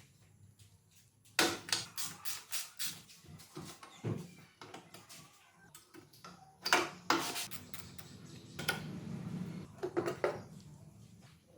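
Irregular clicks, clinks and knocks of hand tools and metal parts being handled, with a short scraping stretch. There is a quick cluster of clicks near the start and scattered knocks after it.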